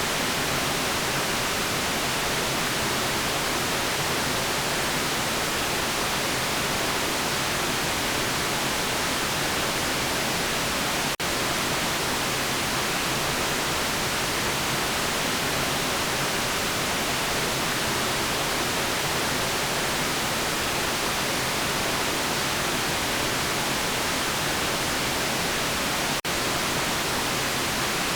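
Steady white noise: a constant, even hiss with no tones or rhythm. It is broken twice by a split-second dropout.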